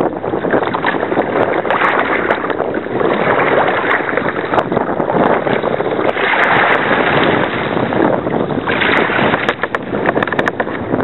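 Water rushing and splashing around a paddled kayak, mixed with wind on a small camera's microphone; the noise swells and eases every couple of seconds.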